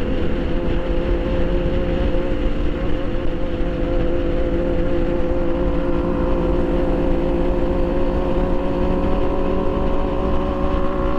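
Motorcycle engine running at a steady engine speed while riding, with wind rumbling on the microphone.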